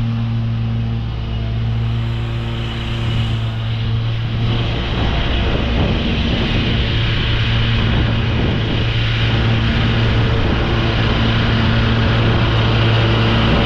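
Commercial lawn mower's engine running steadily, with a rougher, noisier stretch through the middle.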